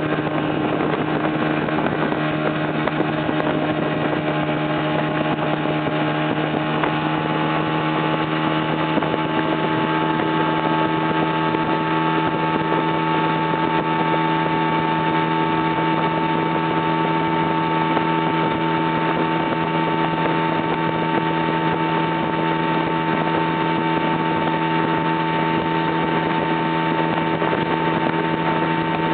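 Motorboat engine running at a steady, unchanging pitch, with a constant rushing noise underneath.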